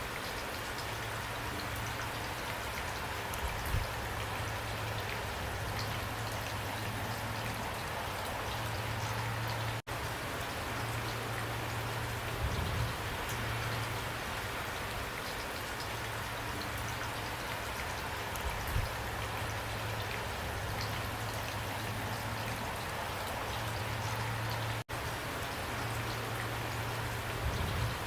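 Steady rain falling, an even hiss of drops with a few soft low thumps. The sound cuts out for an instant twice, about ten seconds in and again near the end.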